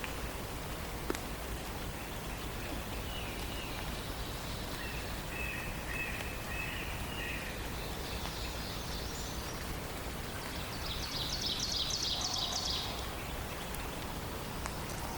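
Songbirds singing over a steady background hiss of forest ambience. Several short phrases come from different birds, and the loudest is a quick run of high notes near the end.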